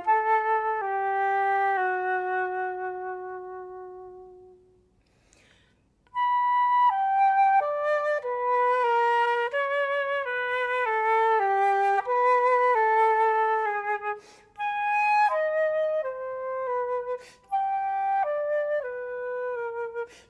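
Solo flute playing a single melodic line. A falling phrase ends on a long low note that fades away, followed by a short pause with a breath. A busier phrase of quick notes then follows, broken by quick breaths.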